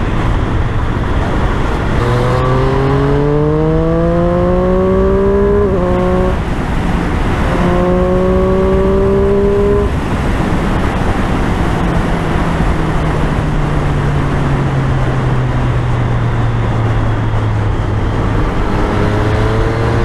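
Triumph Street Triple 765's three-cylinder engine pulling under wind noise on the move: the pitch climbs for a few seconds, dips briefly at a gear change about six seconds in, and climbs again. It then falls slowly for several seconds as the bike eases off, and starts rising again near the end.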